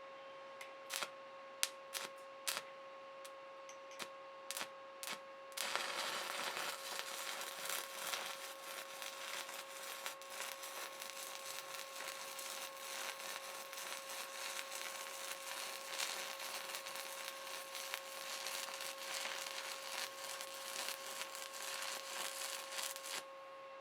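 A few sharp clicks, then about five and a half seconds in a stick-welding arc on a 7018 electrode strikes and crackles continuously for nearly twenty seconds as a bead is run, cutting off abruptly near the end. A steady whine underneath holds throughout.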